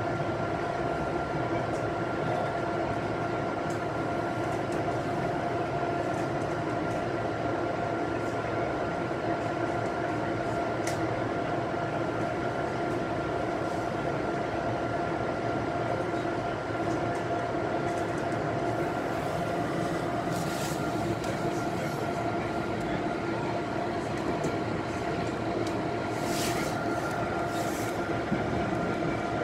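Metro-North commuter train in motion, heard from a passenger car: a steady running rumble with a constant hum, and a few brief high hissing squeals about two-thirds of the way through and near the end.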